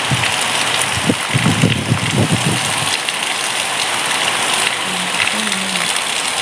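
Heavy rain pouring down in a steady, dense hiss, with a few low muffled thumps about a second in.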